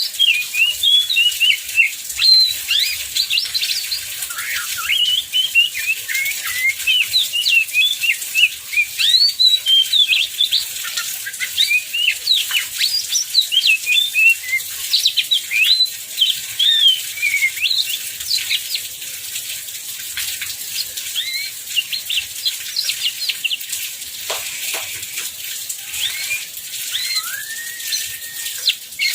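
Oriental magpie-robin (kacer) singing a rapid, varied song of short chirps and whistles without pause, with a longer held whistle near the end. A steady hiss, the heavy rain, runs underneath.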